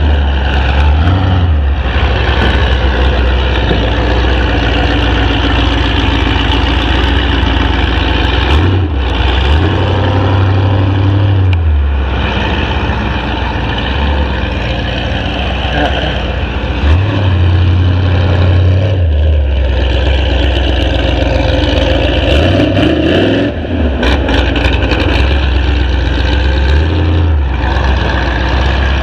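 Vehicle engine running loudly, its low rumble stepping up and down a few times.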